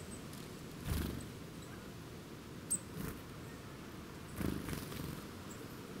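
Small woodland birds at a ground feeder: a few soft rustling thumps, about a second in and again around four and a half seconds, over a faint steady outdoor hiss, with one brief high chirp near the middle.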